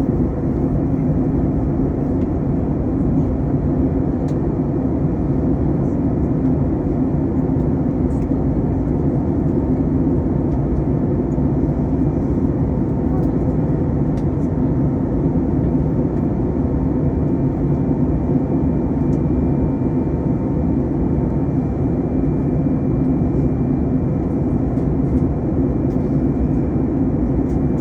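Steady cabin noise inside an Airbus A321 on descent: a dense, even low rumble of airflow and engines with a few steady tones over it. A faint higher tone stops about two-thirds of the way through.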